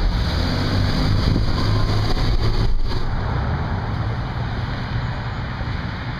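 A car's engine running low and steady as it rolls past slowly, heard from inside the car along with road noise.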